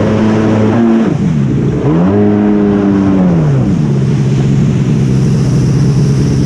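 Yamaha Wave Raider jet ski's two-stroke engine heard from aboard while riding. The revs drop about a second in, climb again, drop once more, then hold steady at a lower pitch.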